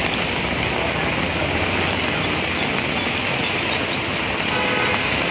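Heavy rain falling steadily on a wet street, with traffic moving through the water.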